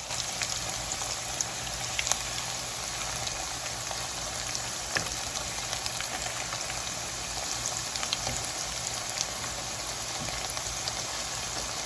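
Hot cooking oil sizzling steadily with many small scattered pops as panko-breaded chicken deep-fries.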